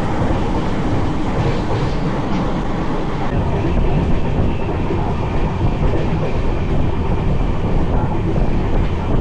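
Passenger train running, a steady rumble and clatter of wheels on the rails heard from on board.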